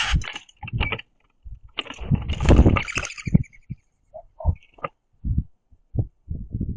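Birds pecking seed off a platform feeder close to the microphone: irregular knocks and taps on the tray, with a louder scuffling burst about two to three seconds in.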